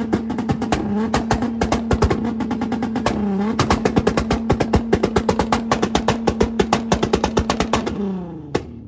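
Car engine held on a two-step launch-control rev limiter, running at a steady pitch with rapid exhaust pops and bangs. The revs dip briefly twice, then fall away near the end, followed by one last bang.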